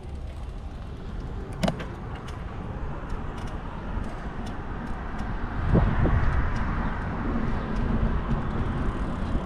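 Street traffic at an intersection, a steady low rumble of engines and road noise. There is a sharp click about a second and a half in. A vehicle passes about six seconds in, its sound falling in pitch as it goes by.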